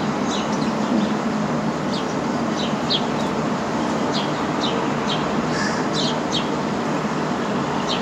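Small birds chirping repeatedly in short, quick notes over a steady background rumble.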